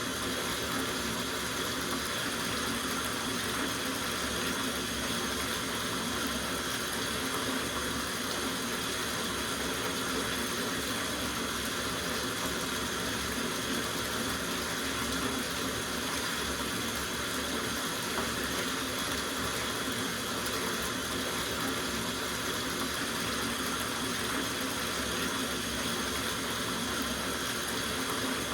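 Tap water running steadily into a soaking bathtub, an unbroken splashing rush with no change in level.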